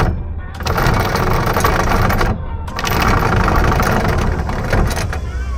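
A new boat anchor being let down, its gear running with a rough rattling clatter in two runs and a short stop a little past two seconds in, over a steady low engine hum.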